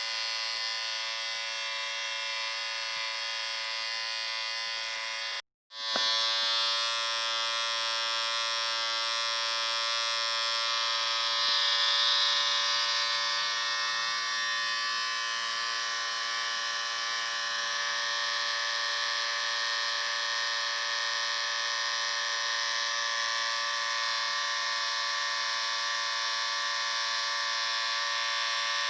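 Electric shaver running with a steady buzzing hum. It cuts out completely for a moment about five and a half seconds in, then starts again at a slightly different pitch.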